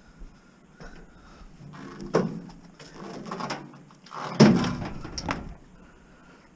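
Knocks, clunks and scraping as scrap and other items are handled at a van. There are two sharper knocks, one about two seconds in and a heavier one about four and a half seconds in.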